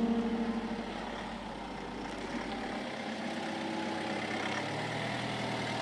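Music fades out in the first second, giving way to a car's engine as the minivan drives up and comes to a stop, then idles.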